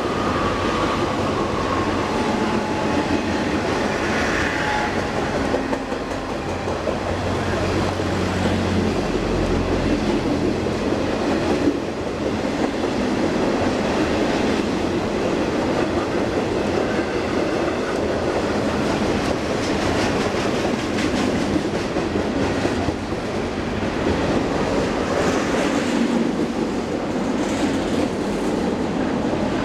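Train rolling past, with the steady rumble and clatter of wheels on the rails.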